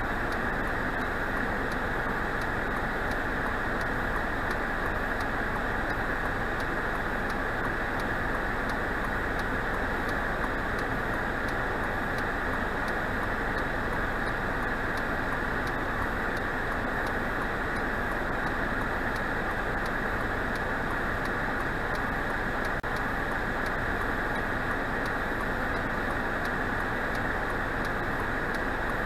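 Steady car noise heard inside a vehicle: an even, unchanging hiss and rumble with no distinct events.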